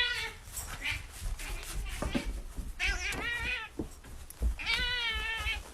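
Domestic cat meowing twice, with drawn-out, pitched calls about three seconds in and again near the end.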